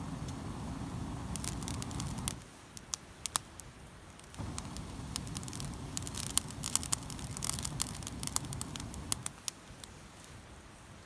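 Wood fire crackling, with many sharp pops and snaps, densest in the middle of the stretch. A low rumble runs underneath, stops for about two seconds after the first two seconds, and cuts out near the end.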